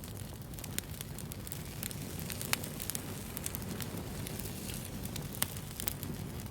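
Wood fire burning with a steady low rumble and scattered sharp crackles and pops, the loudest pop a little before halfway.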